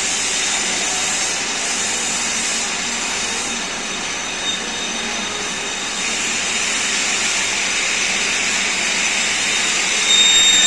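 Metal-working machine running with a steady hissing whir, and a brief, louder high-pitched squeal near the end.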